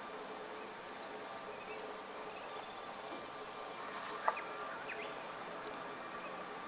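Short, high call notes of a Japanese tit, scattered and faint, over a steady background hum. One sharp click comes about four seconds in.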